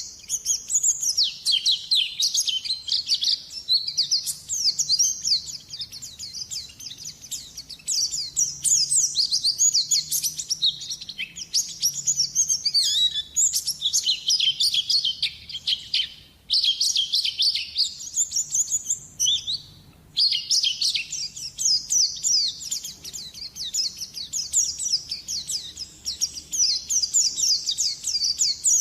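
White-eye (pleci) singing vigorously: a long, fast, high twittering song of rapid chirps and trills, with two short breaks about sixteen and twenty seconds in.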